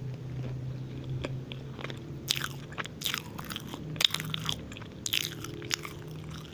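Close-miked chewing of a moist banana walnut muffin, with wet mouth smacks and irregular crunchy crackles from the walnut pieces, the loudest about four seconds in.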